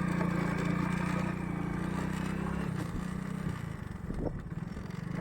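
Motorcycle engine running at a steady pitch, then about halfway through changing to an uneven, pulsing beat at lower revs.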